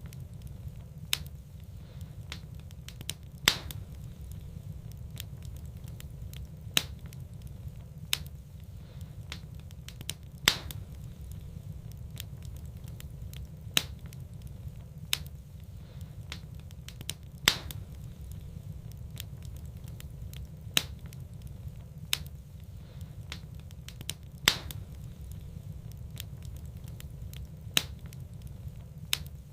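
Wood fire burning in a fireplace, crackling with sharp pops every second or two over a steady low rumble.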